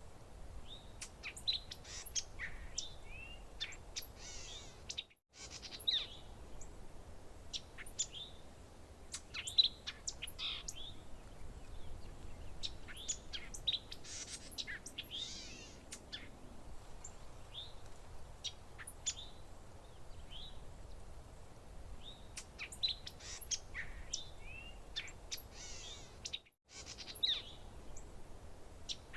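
Several small songbirds chirping and trilling in quick, overlapping calls over a faint low rumble. The sound drops out for an instant twice, about five seconds in and near the end, the seams of a repeating recorded loop.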